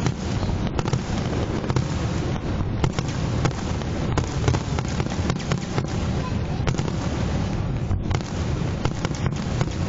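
Fireworks going off in rapid succession: a continuous low rumble of bursts with many sharp cracks throughout.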